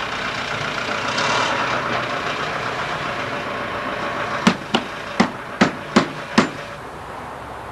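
Steady road-traffic noise with a vehicle passing about a second in, then six sharp knocks in quick succession, about a third of a second apart, past the middle.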